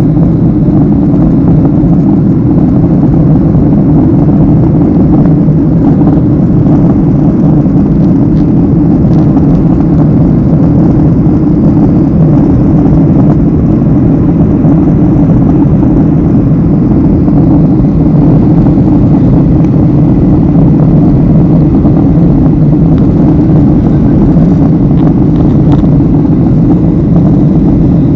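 Steady, loud drone of a jet airliner's engines and rushing air heard inside the passenger cabin during the climb after takeoff, with no change in pitch.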